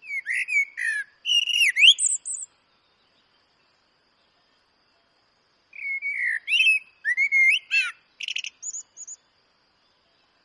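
Eurasian blackbird singing two phrases a few seconds apart, each a low fluted warble followed by a higher, thin twittering ending.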